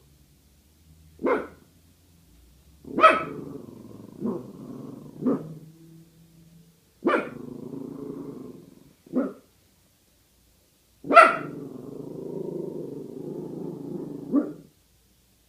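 Small Chihuahua barking in single sharp barks, about eight of them, with long low growls rumbling after several of them, as a wary warning at an unfamiliar object hanging up.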